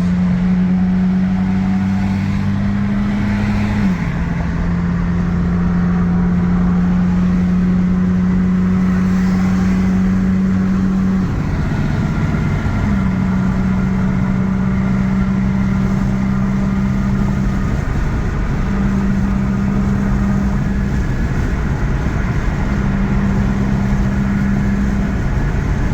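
Honda Civic four-cylinder engine running through a muffler-delete exhaust while cruising. It makes a steady drone whose pitch steps down and briefly breaks off a few times.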